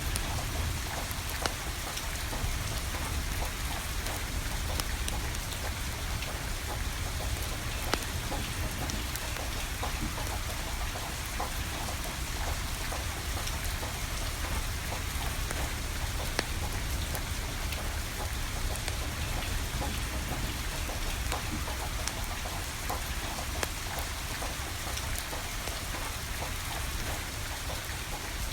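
Steady rain pattering, with scattered sharp pops and crackles from a wood fire and a low rumble underneath.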